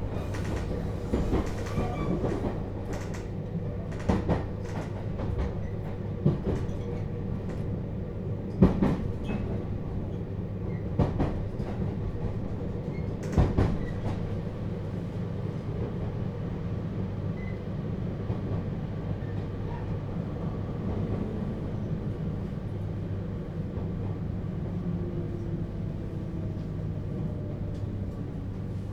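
Interior sound of a JR Hokkaido 721 series electric train car: a steady low hum, with several sharp knocks and clunks in the first half.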